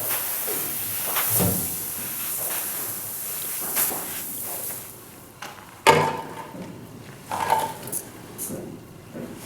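Knocks and clatter of a Vikhr-2000 grain heap aeration fan's parts being handled and fitted. The sharpest knock comes about six seconds in, with a few lighter ones after it, and a steady high hiss runs through the first half.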